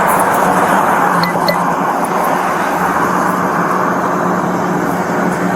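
Steady motor-vehicle noise: a running engine's hum under a constant rush of road or traffic noise. Two short faint beeps come a little over a second in.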